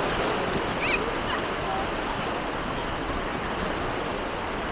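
Beach ambience: a steady wash of surf with faint, distant voices, and one brief high chirp about a second in.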